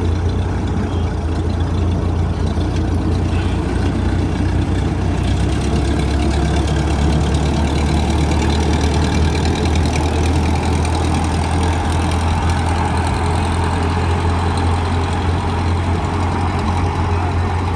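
Old Ferguson TE-20 tractor's four-cylinder engine running steadily.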